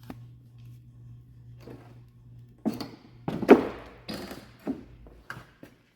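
A run of knocks and thumps, about six over three seconds with the loudest near the middle, over a steady low hum that cuts out near the end.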